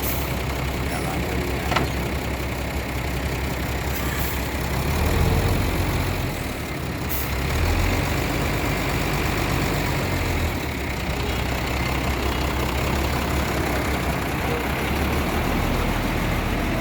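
A heavy truck engine idling steadily, swelling in loudness a few times.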